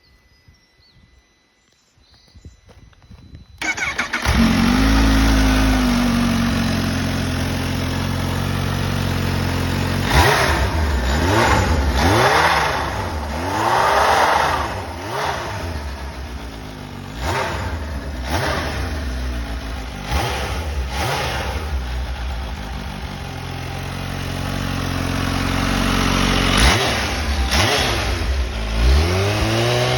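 Kawasaki Ninja H2 SX SE's supercharged 998 cc liquid-cooled inline-four on its stock muffler, starting up about four seconds in and settling into a steady idle. It is then revved in a run of quick throttle blips, each rising and falling, settles back to idle, and is blipped a few more times near the end.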